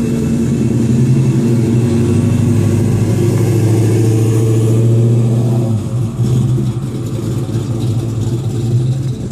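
Ford Mustang Mach 1's V8 engine running loudly as the car drives past and pulls away. Its note dips briefly about six seconds in, then picks up again.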